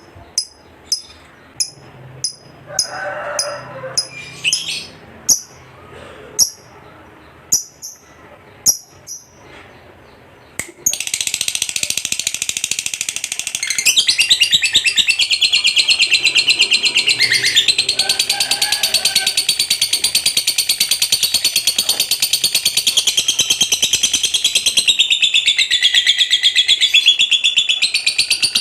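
Lovebird giving sharp single chirps about once a second, then about ten seconds in breaking into a long, continuous, rapid chattering trill ("ngekek") that runs on without a break.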